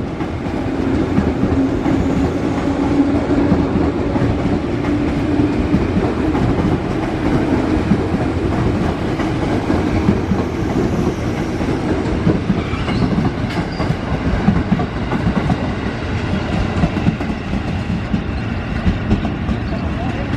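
Electric commuter train (KRL) passing through a station without stopping: a steady rumble of steel wheels on rail with a continuous clickety-clack over the rail joints. A low steady hum fades out about six seconds in.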